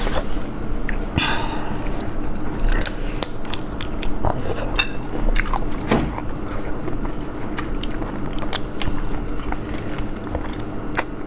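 Close-miked chewing and biting on spicy braised chicken feet, with many short wet clicks and smacks.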